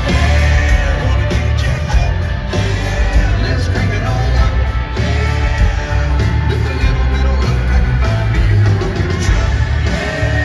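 Loud live country-rock music from a full band, with heavy bass and drums keeping a steady beat.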